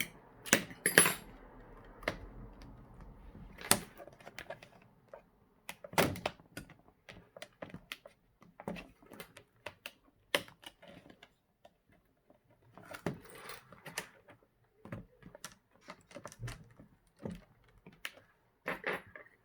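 Irregular small clicks, taps and scrapes of a Chromebook's plastic screen assembly being worked at by hand to free it.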